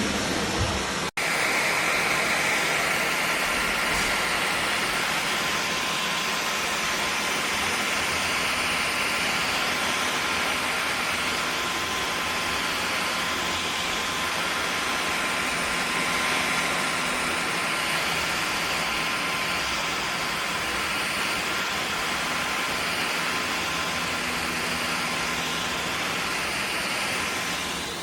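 Dyson Gen5outsize cordless stick vacuum running steadily: an even rushing of air with a thin, steady high whine over it. The sound cuts out for an instant about a second in, then carries on unchanged.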